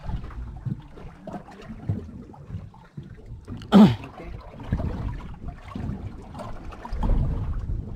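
Water sloshing and lapping around a small fishing boat, with uneven wind and handling noise. One loud knock comes about four seconds in.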